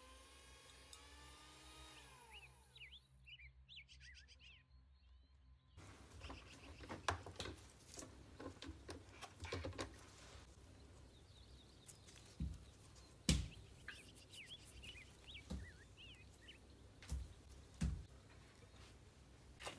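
Faint birds chirping, with a scatter of soft knocks and taps coming in from about six seconds in.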